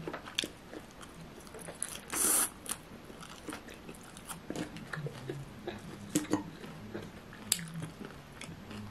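Close-up eating sounds: chewing and biting on a beef pasta salad topped with crunchy granola, with scattered short clicks of fork and spoon against the ceramic plate. One louder burst of noise comes about two seconds in.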